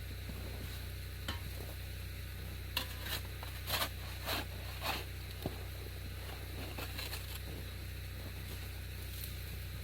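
Snow shovel scraping and crunching into hard-crusted snow, about five quick strokes bunched a few seconds in, over a steady low hum.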